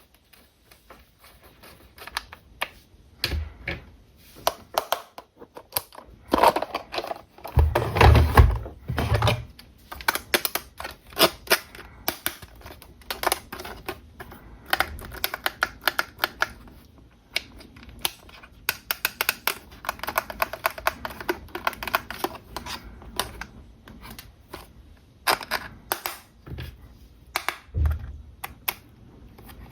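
Hands unboxing and handling a 1:20 remote-control toy car and its packaging: many irregular sharp plastic clicks and taps with rustling, heavier knocks about eight seconds in.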